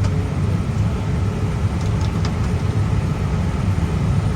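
Airbus A320 cockpit noise while taxiing after landing: a steady low rumble, with a few faint ticks about two seconds in.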